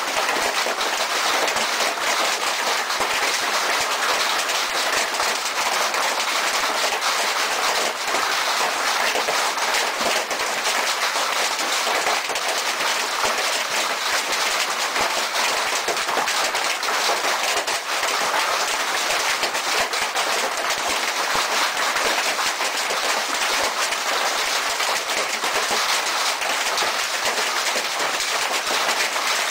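Heavy hail pelting down, a dense, unbroken rattle of countless small impacts.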